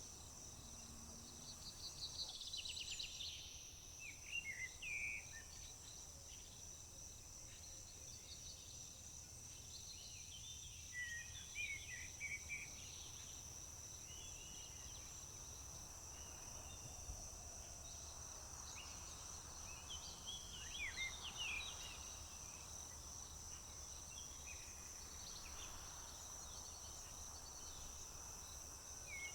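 Crickets chirring steadily at a high pitch, with short bird songs and calls breaking in several times over them.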